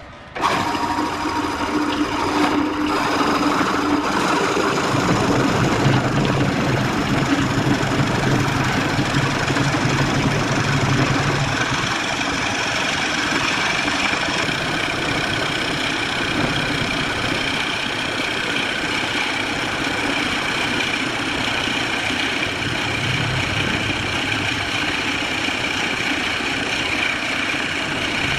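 Wood lathe running with a tool cutting into the spinning wood: a loud, steady machine noise that starts abruptly just after the beginning.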